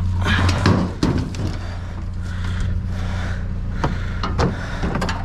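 A steady low motor hum, like an idling vehicle engine, runs under the rattling and clattering of junk being pulled and moved. A burst of clatter comes about half a second in, and a few sharp knocks come near the end.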